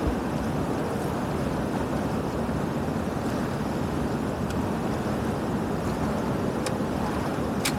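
Steady rush of floodwater pouring through a drainage channel, with a couple of faint clicks near the end.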